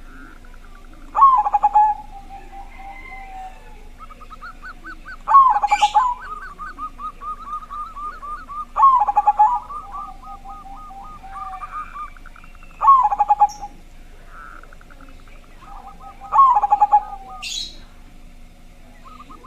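Zebra dove (perkutut) cooing loudly, five calls about every four seconds, with rapid runs of short repeated notes between some of them. A brief higher chirp is heard twice.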